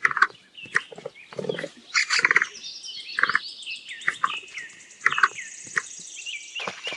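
Capybara calling: a string of short squeaky calls, irregularly spaced about every half second to a second. Faint high bird chirping runs behind them.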